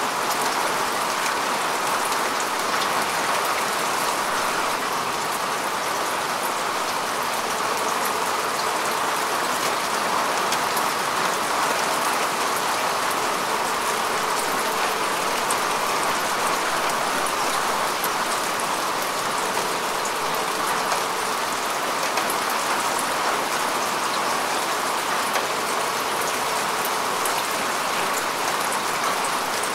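Steady rain falling on grass and earth, an even hiss with many fine drop patters.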